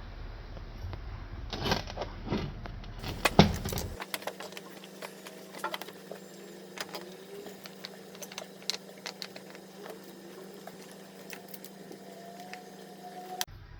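Scattered light clicks and clinks of hand tools and metal parts being handled, with a few louder knocks in the first few seconds. A faint steady hum runs under the later clicks and stops just before the end.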